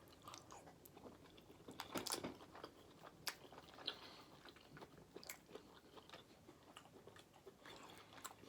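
A person chewing and biting food, close to the microphone, with faint wet mouth clicks and smacks; the strongest come about two and about three seconds in.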